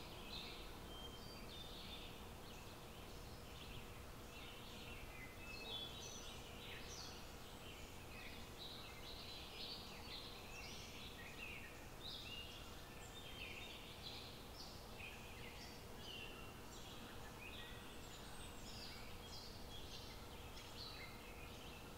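Many birds chirping and calling, short overlapping calls one after another, over a faint steady background hiss.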